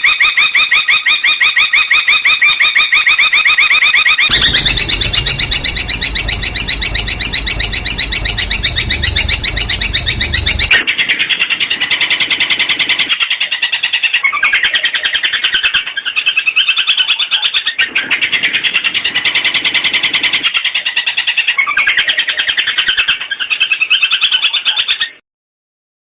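Long-tailed shrike (cendet) singing fast runs of sharp, rapidly repeated notes. About four seconds in the song changes to a denser, harsher run with a low rumble underneath. From about eleven seconds it comes in phrases with short breaks, and it stops near the end.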